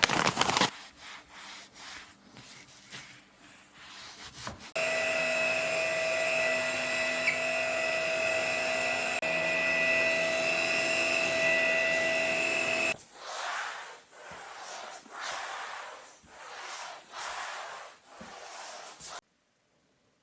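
Carpet washing machine's suction motor running steadily with a constant whine for about eight seconds, then switched off abruptly. Before and after it there are irregular rubbing and scrubbing sounds.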